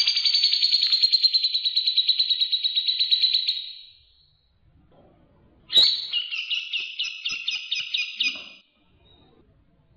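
A songbird singing two fast, evenly pulsed trills of about three seconds each, the second starting a little before the six-second mark after a short pause; this is recorded birdsong from a masteran training track of grey-cheeked bulbul and Eurasian tree sparrow.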